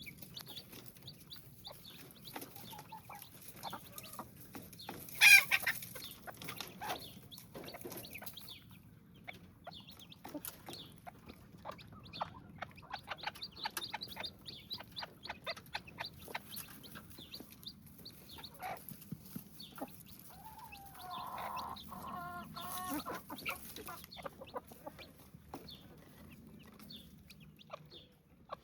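Chicks cheeping and clucking as they feed, with many short clicks. One loud sharp sound comes about five seconds in, and a longer, lower call about two-thirds of the way through.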